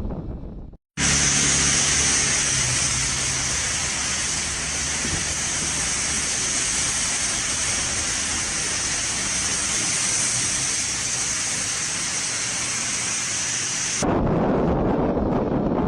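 Steady, loud hiss of storm noise, cut in sharply about a second in and cut off abruptly about fourteen seconds in. Lower wind rumble is heard before and after it.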